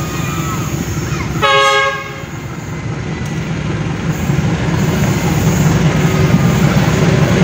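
Diesel locomotive hauling a passenger train gives one short horn blast about a second and a half in, over the low rumble of its engine, which grows louder as it approaches.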